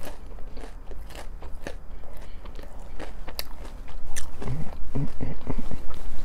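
Close-up chewing and crunching of a breaded fried chicken strip, with many short crisp crackles. A few short low hums come about two-thirds of the way through.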